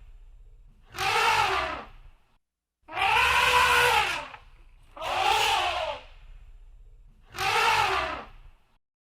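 Elephant trumpeting: four loud, blaring calls about a second long, each rising then falling in pitch, about two seconds apart.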